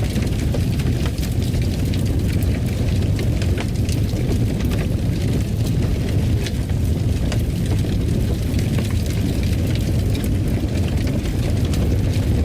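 Wood fire burning in a fireplace: a steady low rumble with frequent sharp crackles and pops scattered through it.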